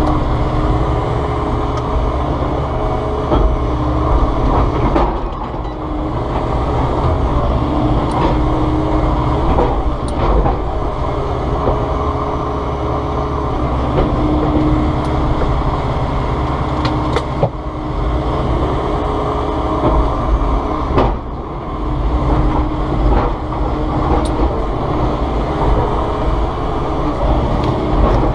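Volvo ECR145EL excavator's diesel engine running steadily under load, with a hydraulic whine that comes and goes as the boom and arm work. There are a few brief sharp cracks.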